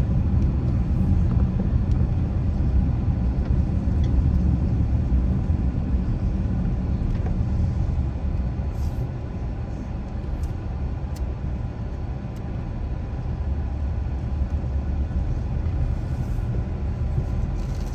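Car driving along a road: a steady low rumble of engine and tyres, easing a little midway and building again toward the end.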